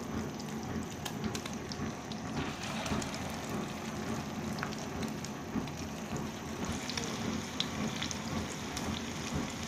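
Egg-coated chicken shami kababs frying in hot ghee on a tawa: a steady sizzle with scattered small pops and crackles.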